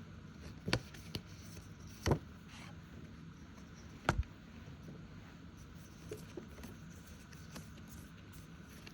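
A few sharp taps and soft handling noises from paper cash envelopes and a binder being picked up and sorted.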